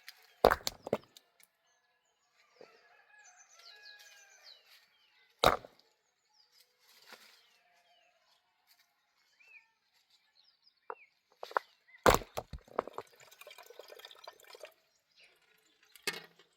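Four sharp, heavy blows a few seconds apart, like a tool striking wood or hard ground. Between them, chickens cluck softly and small birds chirp.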